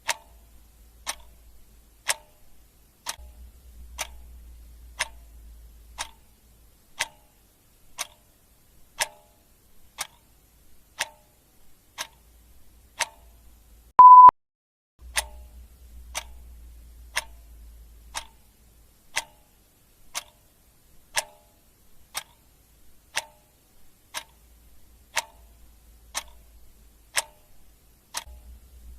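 Clock ticking steadily, about two ticks a second. About fourteen seconds in, a single short, loud electronic beep sounds over the ticks.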